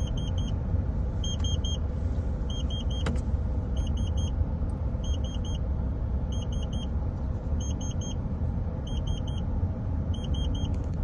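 Steady low rumble of a moving vehicle heard from inside, with an electronic warning beeper going in groups of three quick high beeps about once a second.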